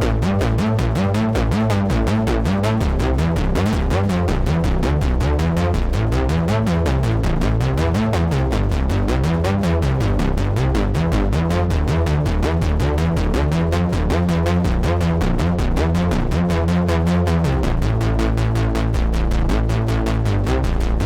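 Moog Messenger analog monosynth playing a fast run of rapidly repeating notes over a moving bass line. The pattern changes about three-quarters of the way through.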